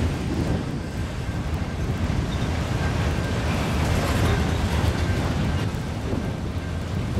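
BNSF freight train rolling past, a steady rumble of wheels on rail, with wind buffeting the microphone.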